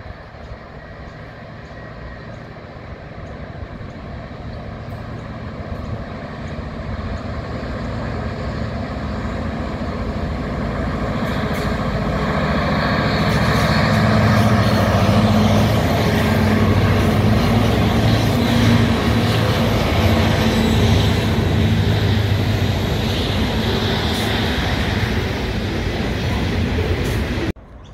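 Loaded coal train hauled by three diesel locomotives approaching and passing. The locomotives' engine drone grows steadily louder as they close in, then gives way to the rumble of the coal hopper wagons rolling over the rails. The sound cuts off suddenly near the end.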